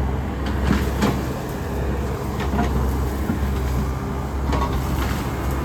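Takeuchi excavator's diesel engine running steadily under load while clearing trees, with several short sharp snaps of branches breaking scattered through.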